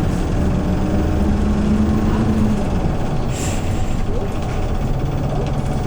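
Hyundai New Super Aero City CNG city bus's engine running under way, its tone rising for the first two and a half seconds and then falling away as the driver comes off the throttle. About three and a half seconds in there is a short hiss of compressed air from the air brakes.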